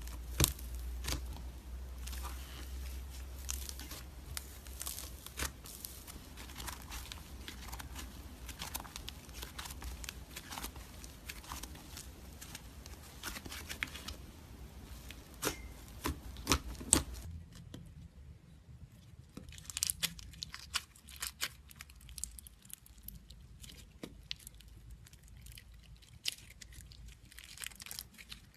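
Slime being handled, stretched and squeezed, giving a dense run of small crackling, popping clicks. A low hum beneath it drops out about 17 seconds in, and the crackling goes on.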